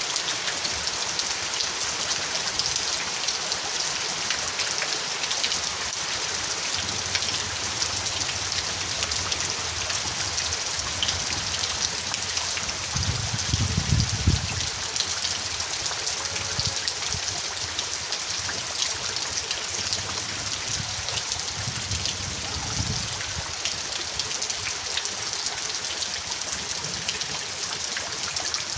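Steady rain with many fine drops pattering. Two short low rumbles come through, one about halfway through, the louder, and another about two-thirds in.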